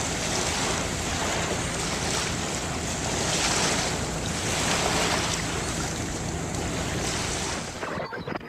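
Sea surf washing and wind rushing over the microphone: a steady hiss that swells and eases every second or two, then fades away near the end.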